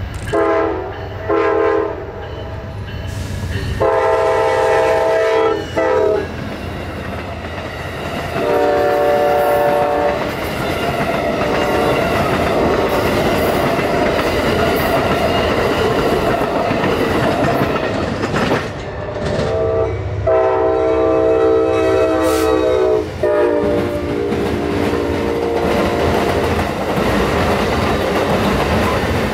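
Amtrak passenger train's locomotive horn sounding a series of blasts: two short ones, then a long one and another, as the train approaches. The passenger cars then rush past with a steady rumble and clickety-clack of wheels over rail joints. After a break, another passenger train's horn sounds two blasts, a longer one and a shorter one, and its cars rumble by.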